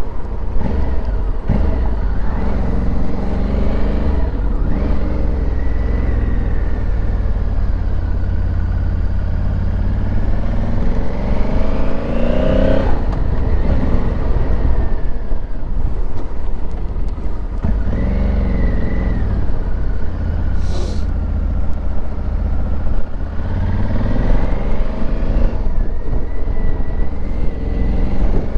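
Honda Africa Twin's parallel-twin engine under way, its pitch rising as it accelerates and dropping back twice at gear changes, over a steady low rumble.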